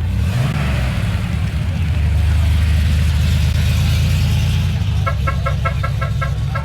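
A car engine running with a deep, steady rumble that swells a little about two seconds in. Near the end a rapid series of short beeps, about seven a second, sounds over it.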